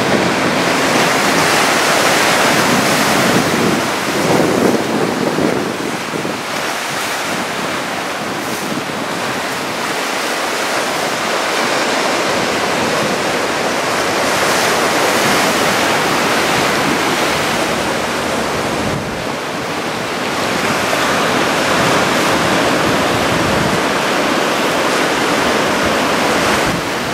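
Waves from a waist-high typhoon swell breaking on the shore, a steady rushing that swells and eases several times, with wind buffeting the microphone.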